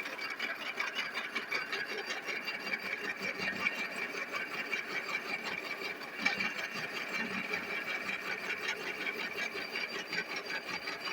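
A metal-cutting machine tool runs steadily as it cuts a steel workpiece, a fast, even chatter with a steady whine. The cut goes smoothly: the steel machines softly, throwing curled chips.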